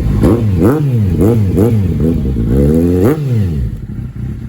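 Motorcycle engine revved in several quick throttle blips, its pitch rising and falling each time, then dropping back to idle about three and a half seconds in.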